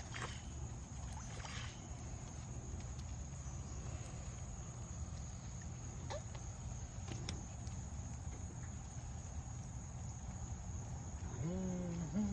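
Steady low rush of floodwater running across the yard, under a constant high insect drone. Near the end a short pitched hum rises and then holds steady.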